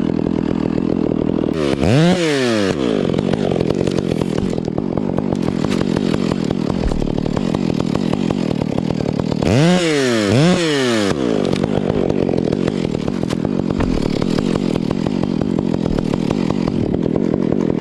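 Two-stroke chainsaw idling, revved up sharply once about two seconds in and twice in quick succession around ten seconds, dropping back to idle each time.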